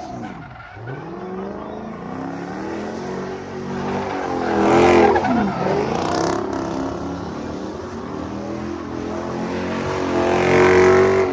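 Car engine revving hard several times, its pitch climbing and dropping, loudest about five seconds in and again near the end.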